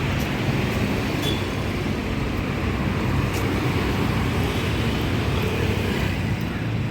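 Steady road traffic noise from passing vehicles, with a continuous low rumble and a few faint clicks on top.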